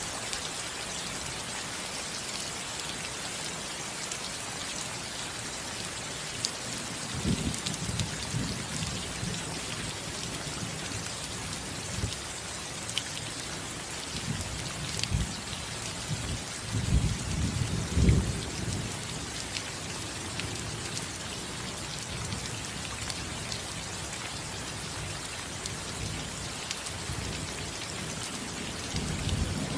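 Steady rain falling on a roof, a continuous hiss. Low rumbles of thunder swell up about a quarter of the way in and again just past the middle, where the loudest one peaks.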